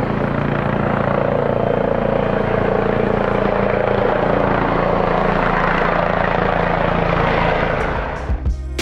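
Steady aircraft engine noise, a loud rush with a low drone beneath it, dying away near the end.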